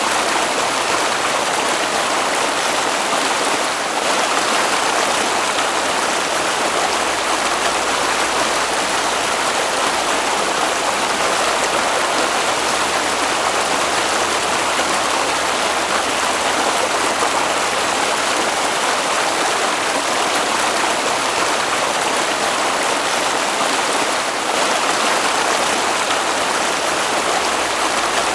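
Flowing stream water, a steady even rush without a break.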